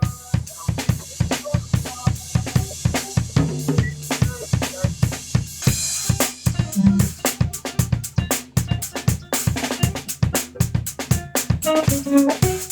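Drum kit played in a fast, busy groove: kick drum, snare and toms hit several times a second, with cymbals.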